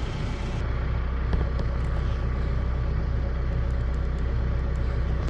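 TYM T574 tractor's diesel engine idling steadily.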